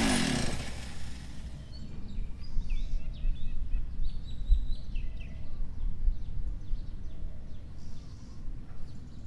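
Quiet outdoor ambience: a steady low rumble with faint bird chirps scattered through it. The echo of a loud bang dies away in the first second.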